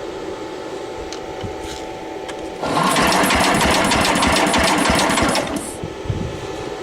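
Starter cranking the engine of an old Suburban garden tractor in a fast, even chatter for about three seconds, starting a couple of seconds in and stopping abruptly without the engine catching. The owner expects it needs a new carburetor.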